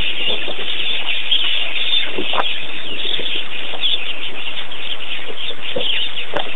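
Steady, loud, high hiss of outdoor ambience, with a few short bird chirps.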